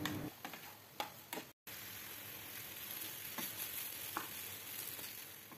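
Cut okra frying in oil in a pan, a faint steady sizzle, with a few light clicks of a wooden spatula stirring it. The okra is being fried in oil with salt and turmeric to cook off its sliminess.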